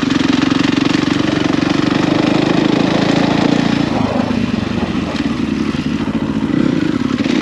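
Husqvarna FE450 enduro bike's single-cylinder four-stroke engine running under way, easing off briefly around the middle and picking up again near the end.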